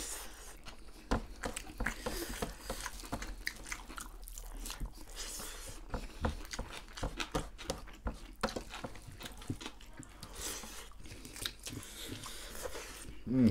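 Close-miked eating sounds of people chewing and biting on a meal of rice and deep-fried goat meat eaten by hand, with many short wet mouth clicks and smacks. A brief voiced murmur comes near the end.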